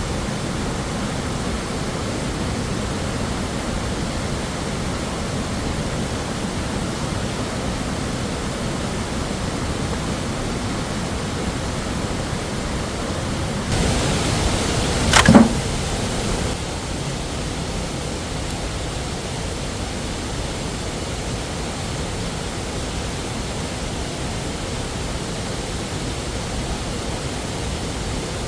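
Steady rushing of a waterfall. About halfway through there is a single sharp knock, the loudest moment.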